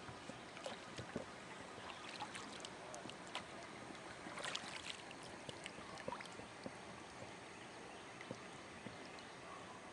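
Faint water sounds around a fishing kayak, with scattered light taps and clicks from gear or hull, most of them about four and a half seconds in.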